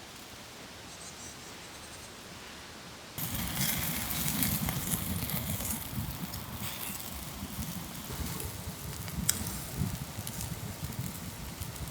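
Wood campfire crackling, with scattered sharp pops. It is quiet for about the first three seconds, then jumps louder.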